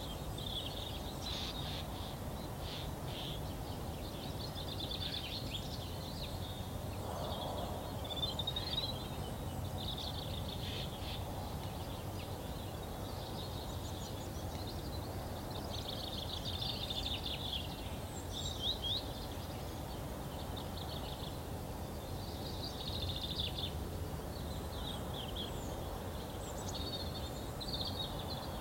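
A songbird singing short, quick phrases a couple of seconds long, repeated every few seconds with pauses between, over a steady low rumble.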